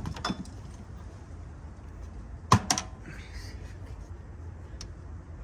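A few short clicks and knocks, the loudest a sharp double knock about two and a half seconds in, from working at a hydraulic valve lifter stuck in its bore in a 4.3-litre V6 engine block.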